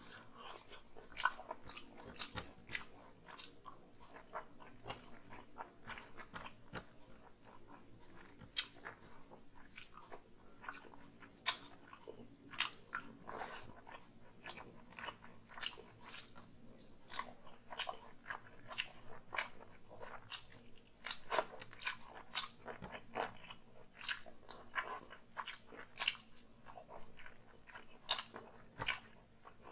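A person chewing and smacking mouthfuls of chicken curry and rice eaten by hand, close to the microphone: irregular sharp mouth clicks and smacks.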